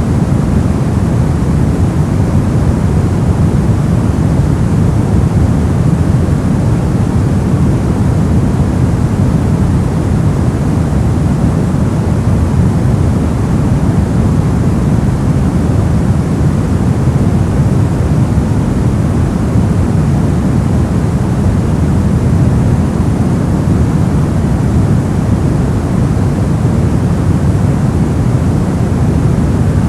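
Continuous white noise, even and unchanging, with most of its energy low, giving a deep steady rush rather than a bright hiss.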